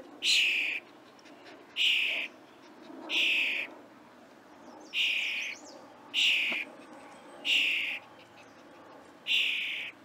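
A young songbird gives seven harsh calls, each about half a second long, repeated every second or two, with a longer pause near the middle.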